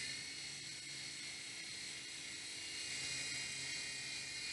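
Small toy RC helicopter's electric rotor motors whirring steadily in flight, a high buzzing hum.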